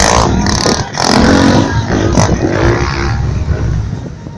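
Motorcycle engine revving, its pitch rising and falling.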